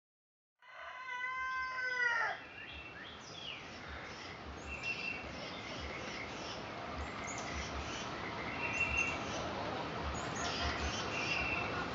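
Black Australorp rooster giving one strained, wavering crow about a second in, pitched high enough to pass for a yowling cat. Small birds chirp faintly in the background afterwards.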